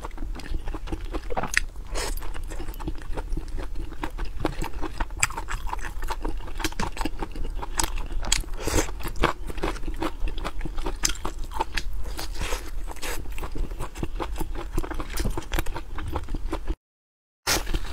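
Close-miked eating of grilled sausages: a rapid, dense run of biting and chewing sounds. The sound cuts out completely for under a second near the end.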